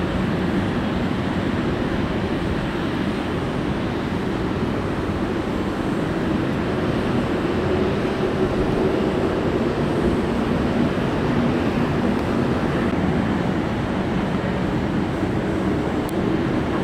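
Jet airliner engines running, a loud steady noise with a low hum that drifts slightly in pitch.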